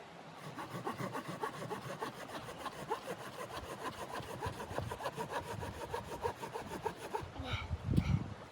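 Saw cutting wood in quick, raspy strokes that stop about seven seconds in, followed by a dull thump near the end.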